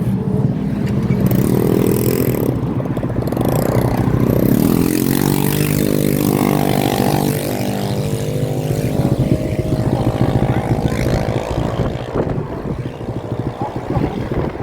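Several motorbike engines running and revving together, their pitch rising and falling in the first few seconds and then holding steadier.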